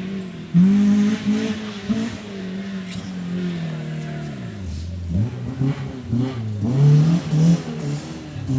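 Off-road race car engine revving hard, its pitch rising and falling with the throttle, dropping low about five seconds in and then climbing back up.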